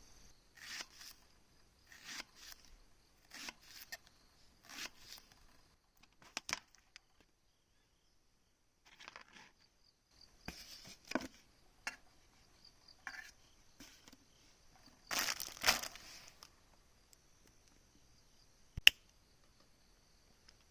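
Intermittent crunching and crumpling noises, roughly every second and a half at first and louder in a cluster later on, with one sharp click near the end. A steady high chirring of insects runs behind them.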